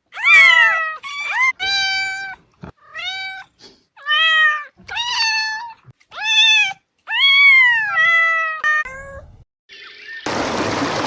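A cat meowing repeatedly: a dozen or so short, high meows, many rising then falling in pitch. About ten seconds in, a loud steady rushing noise takes over.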